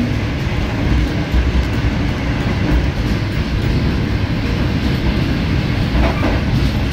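Pakistan Railways Tezgam Express passenger train running at speed, heard from on board: a loud, steady rumble of wheels on the rails.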